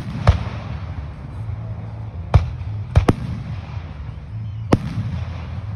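Aerial fireworks shells bursting overhead: about five sharp bangs at uneven intervals, two in quick succession about three seconds in, over a steady low rumble.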